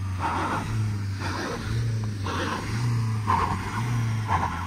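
Dacia Duster SUV's engine revving in surges about once a second as it strains to tow a caravan up out of deep snow. A rushing noise comes with each surge as the drive wheels spin without grip.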